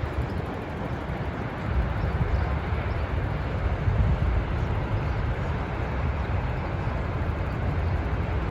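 Steady roar of rushing water from the Rhine Falls waterfall, a deep, even rumble.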